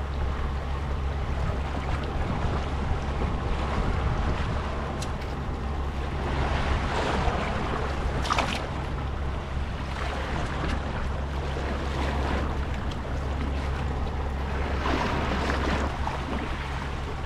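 Sea water washing and splashing against shore rocks, with wind buffeting the microphone and a steady low hum underneath; the water swells louder twice, about seven and fifteen seconds in.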